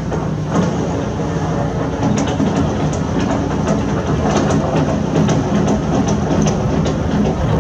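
Heavy construction machinery with its engine running steadily, and repeated sharp clacks and knocks from about two seconds in.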